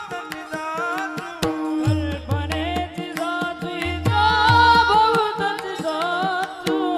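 Marathi devotional bhajan music: a wavering, ornamented melodic line over a tabla-style hand drum, whose bass strokes slide down in pitch, with a steady rhythm of small cymbal clicks.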